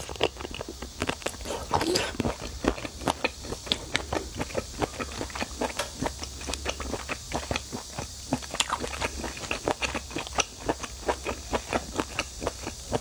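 A person biting and chewing a rubbery octopus tentacle in sauce: a quick, irregular run of sharp mouth clicks, with louder, longer mouth noises right at the start and about two seconds in.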